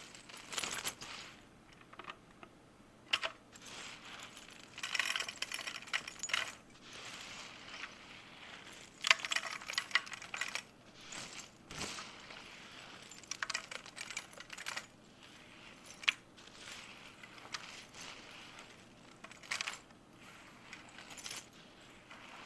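Irregular short bursts of crisp clicking, rattling and rustling, like small hard objects being handled, coming every second or two with a few sharp clicks between them.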